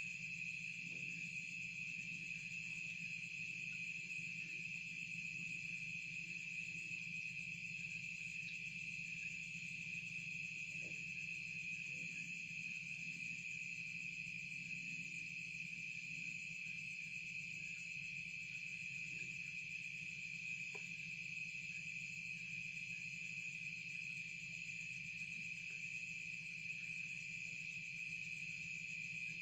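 Insects, cricket-like, trilling steadily in a continuous chorus at one high pitch, with a faint steady low hum beneath.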